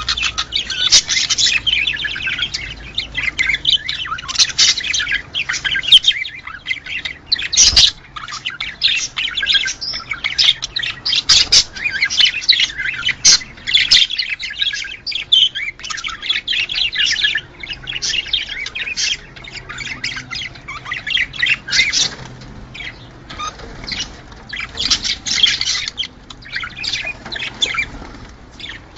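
A flock of budgerigars chattering: a dense, unbroken stream of fast chirps, warbles and squawks. A single sharp knock comes about eight seconds in.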